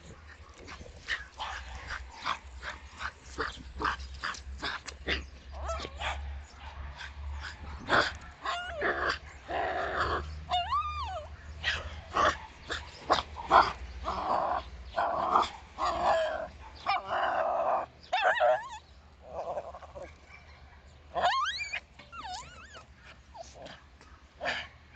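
Small dog barking and yipping many times in quick succession, mixed with a few longer whines that rise and fall in pitch.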